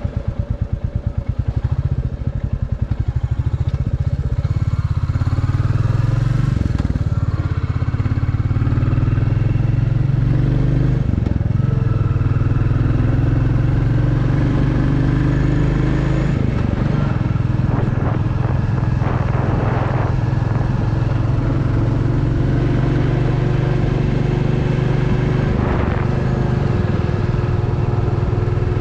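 Royal Enfield Classic 350's single-cylinder engine thumping through its stock exhaust while the bike is ridden. The beats are distinctly separate for the first few seconds, then merge into a steady note as the engine pulls along, with a few brief dips.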